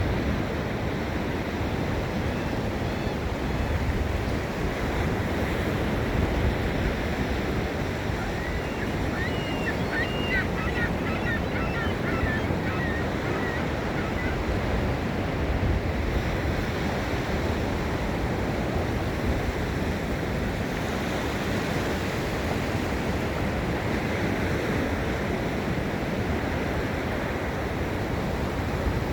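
Ocean surf breaking and washing onto a sandy beach: a steady rush of waves, with a brief run of high chirps about ten seconds in.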